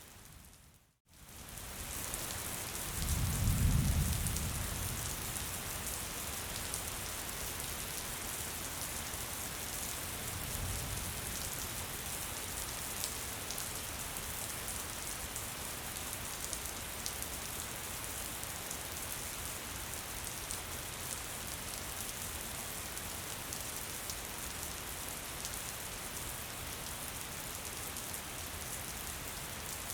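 Steady gentle rain falling, a continuous even hiss of drops. The sound cuts out briefly about a second in, then returns; a low rumble about three seconds in is the loudest moment, with a fainter one around ten seconds.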